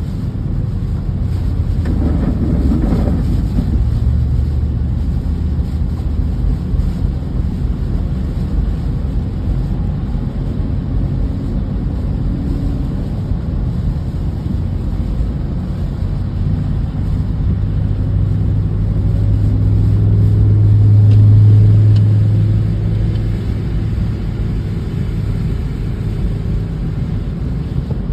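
Low, steady rumble of a motor vehicle running, with a droning hum that swells and fades about three-quarters of the way through.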